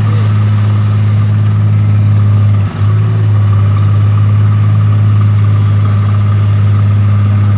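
Diesel truck engine idling steadily, with a low, even hum and a brief dip about a third of the way in.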